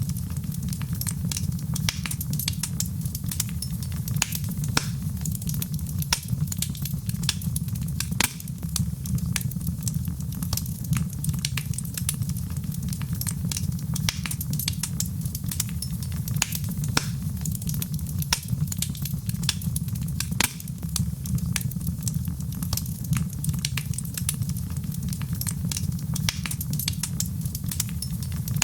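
Fireplace fire crackling: frequent sharp, irregular pops and snaps over a steady low rumble.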